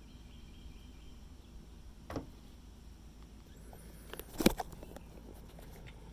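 A few sharp clicks and knocks from a car bumper's plastic bracket being handled as it comes off: one about two seconds in and a louder cluster about four and a half seconds in, over a faint steady hum.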